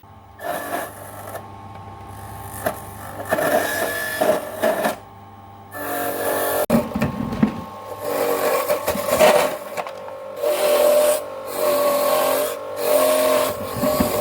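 A small motor-driven machine running in several spurts, with a steady whirring hum and hiss that stops briefly between runs.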